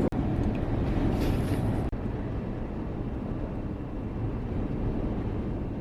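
Steady low rumbling noise, cut off for an instant twice near the start.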